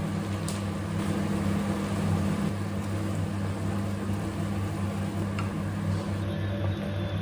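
Steady low electrical hum from a running appliance or motor, with a couple of faint clicks.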